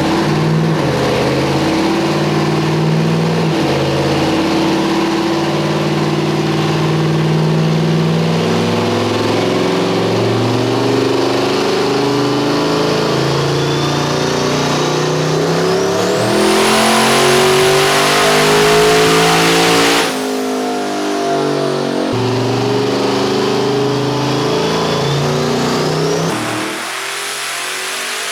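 Twin-turbocharged 427 LSX V8 in a Silverado pickup revving in uneven steps, then running at full throttle with a high rising whistle as the turbos spool. The sound breaks off suddenly twice and picks up again.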